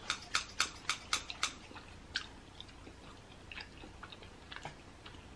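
Close-miked chewing of mac and cheese: a quick run of wet mouth clicks, about four a second, for the first second and a half, then fainter, sparser smacks.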